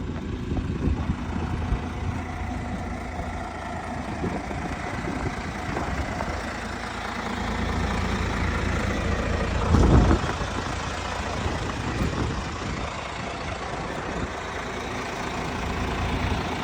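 International mixer truck's Navistar engine idling steadily, with a brief louder low rumble about ten seconds in.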